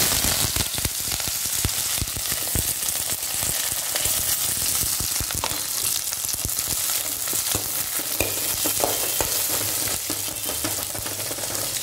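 Sliced onions, green chillies and curry leaves sizzling steadily in hot oil in a metal kadai, with a spatula stirring and knocking against the pan.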